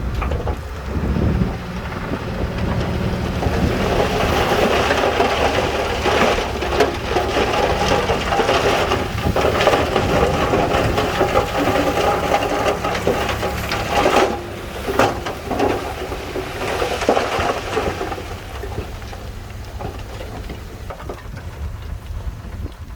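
Heavy earthmoving machinery running, its diesel engine humming low under a long rattling rumble that builds about four seconds in, carries a few sharp knocks in the middle and fades away near the end.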